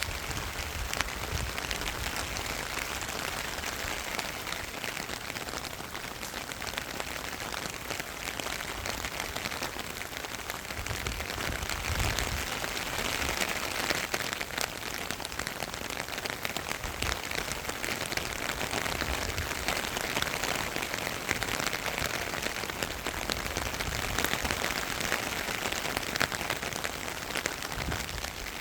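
Steady rain falling, with the patter of many drops striking a surface, and now and then a low rumble of wind on the microphone.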